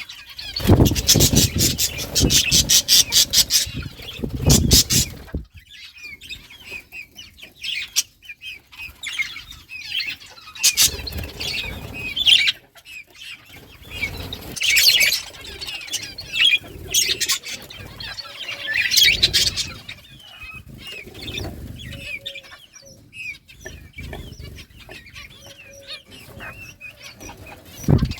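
Several budgies chirping and chattering, with a loud flurry of wing flapping over the first five seconds.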